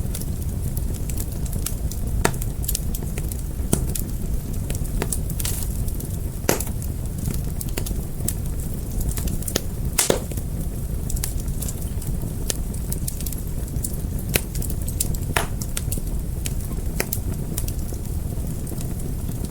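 Fire crackling: a steady low rumble of flames with irregular sharp pops, the loudest about six and a half and ten seconds in.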